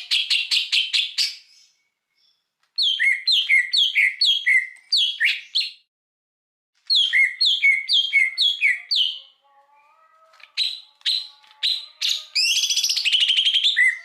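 Songbird song in bursts. It opens with a fast run of repeated notes, then two phrases of quick downslurred whistles with short pauses between them, and near the end a few sharp single notes and a rapid trill.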